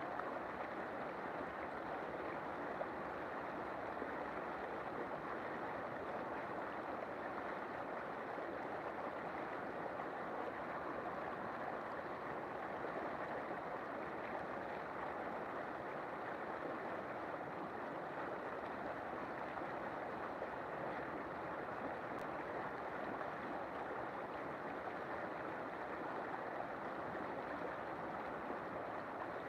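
River water flowing, a steady even rush of water with no breaks.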